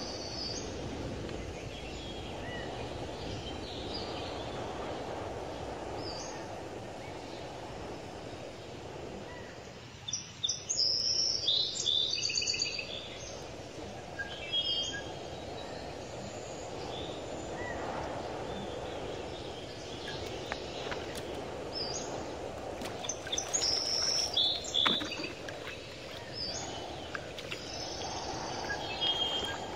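Birds calling in short, high chirps over a steady outdoor background hiss, the chirps coming thickest and loudest in two spells, about a third of the way in and again past two-thirds.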